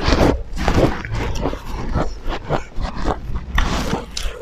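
Close-miked eating sounds: wet chewing and lip-smacking of people eating rice and pork by hand, in irregular quick bursts.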